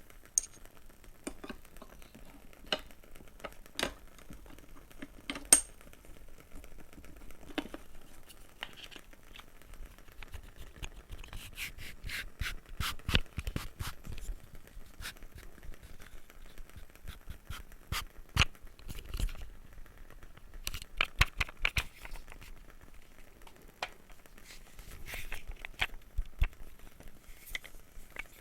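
Small objects, likely wooden, handled close to the microphone: scattered sharp taps at first, then denser runs of rapid clicking and scratching, several times.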